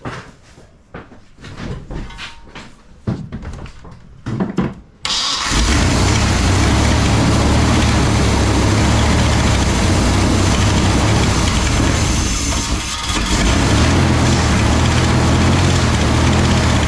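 A Chevy 350 small-block V8 runs loud and steady from about five seconds in, its sound dipping briefly about two-thirds of the way through. Before that there are scattered knocks and clatter. The engine, which had sat for years, is running but not yet tuned.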